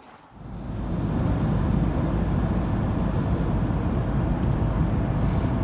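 Ford Transit van on the move: steady engine and road noise that swells up over about the first second and then holds even.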